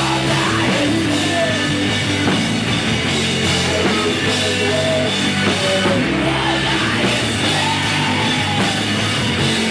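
Rock music from a full band, dense and steady in level.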